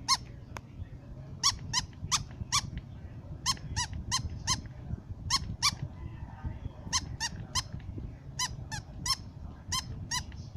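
Aspin, a Philippine native mixed-breed dog, barking in short, high-pitched yips that come in quick runs of two to four, about twenty in all.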